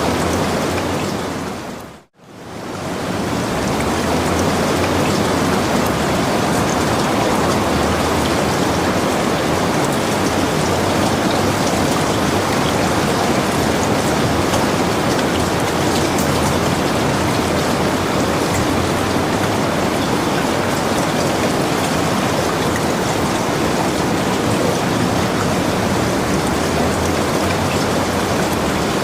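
Steady rain falling, an even hiss of many drops. About two seconds in it fades quickly to silence and swells straight back in.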